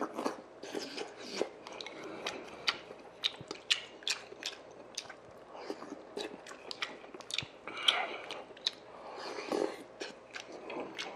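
A man chewing spoonfuls of sundae-gukbap (Korean pork blood-sausage soup with rice) close to the microphone. There are many short, sharp mouth clicks and a few brief louder bursts.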